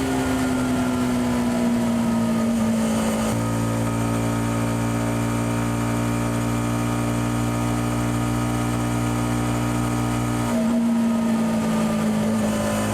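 Yamaha XSR 155's single-cylinder engine through its stock exhaust on the move. The engine note falls gradually for about three seconds as revs drop, then holds a steady, deeper note, and begins falling again near the end.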